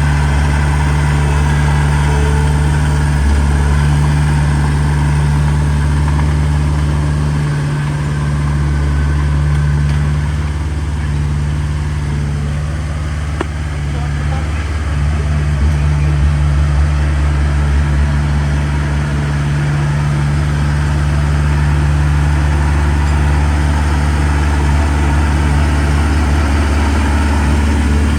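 Heavy diesel engine of earthmoving machinery running steadily. Its level dips for a few seconds around the middle, then comes back up.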